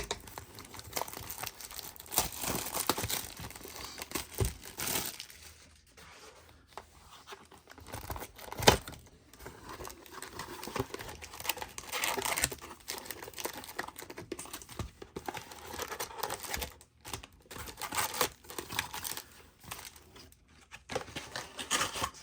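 Plastic wrapping on a trading card box and its packs being torn open and crinkled, in irregular rustling bursts, with one sharp snap about nine seconds in.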